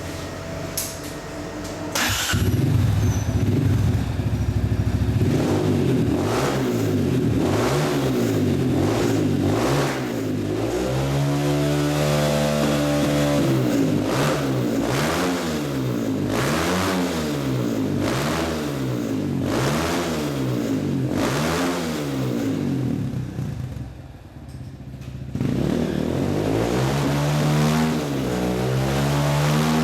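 Honda CRF230F dirt bike's air-cooled single-cylinder four-stroke engine starting about two seconds in and running steadily. It is then revved up and down repeatedly, about once every two seconds. Near the end it briefly drops back before revving again.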